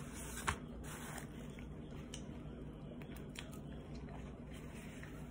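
Close-up chewing of a chicken sandwich: wet mouth sounds and small clicks, with one sharp click about half a second in.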